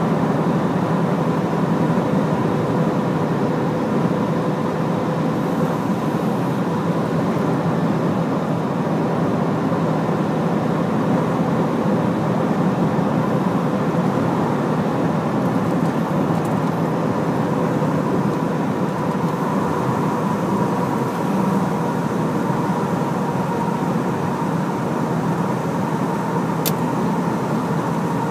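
Hino heavy truck's diesel engine and road noise, running steadily at an even speed. There is a single short click near the end.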